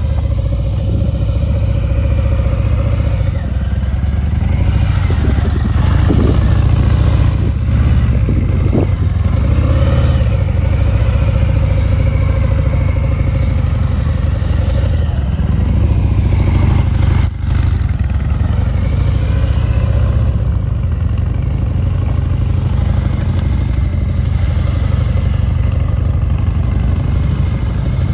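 Motorcycle engine running steadily at low speed, its pitch wavering slightly with small throttle changes during slow-speed cone manoeuvres, with a brief dip about two thirds of the way through.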